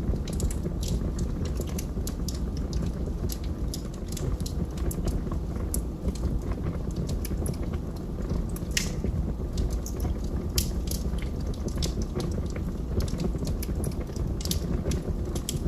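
Wood fire burning in a fireplace: logs crackling and popping at irregular intervals over a steady low rumble of the flames.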